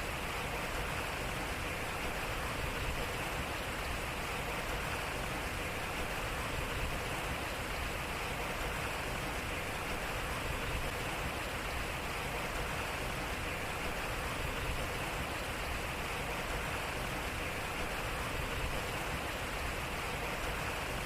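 Water running and splashing off a turning water wheel: a steady rushing with no distinct knocks.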